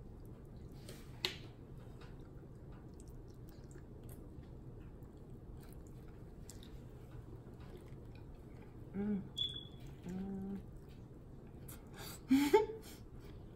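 Close-up chewing and biting of saucy buffalo chicken wings, with small mouth clicks and smacks. Two short hums come around nine and ten seconds in, and a louder smack with a brief rising voice sound near the end.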